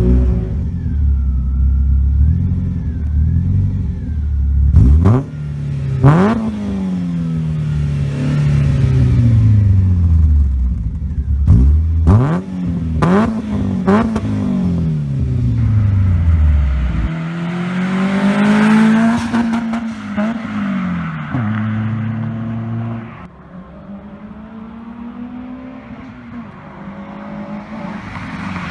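Renault Clio II RS 172's four-cylinder engine through a decat and stainless steel cat-back exhaust, revved in several sharp blips, the revs falling away slowly after each. It goes quieter near the end.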